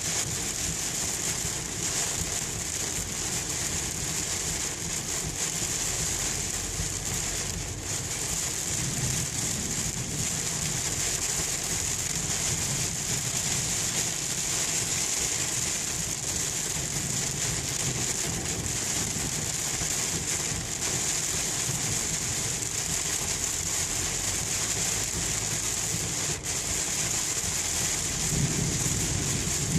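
Heavy rain falling steadily on a moving car, heard from inside the cabin, over a low, steady rumble of the car on the road.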